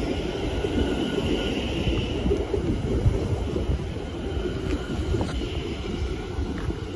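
London Overground Class 710 electric train running in alongside the platform and slowing, a steady heavy rumble of wheels on rail. A high whine is strongest over the first couple of seconds, and a few light clicks come near the end.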